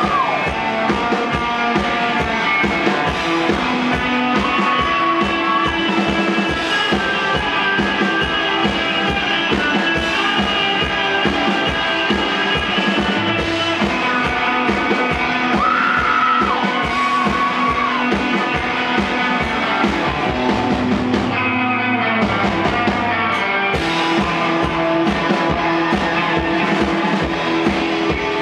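Live rock band playing an instrumental break, with electric guitar over a steady drum-kit beat; the bass drops out briefly near the end before the band comes back in.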